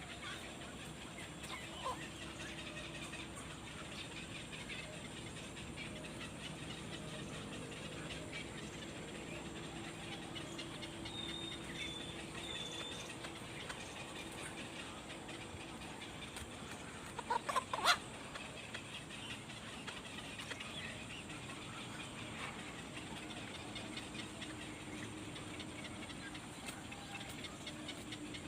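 Faint bird chirps over a steady background hum, with a short loud cluster of sharp sounds about 17 seconds in.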